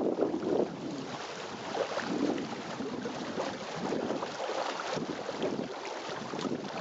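Wind buffeting the microphone over water rushing and splashing along a small sailboat's hull as it sails, in uneven surges.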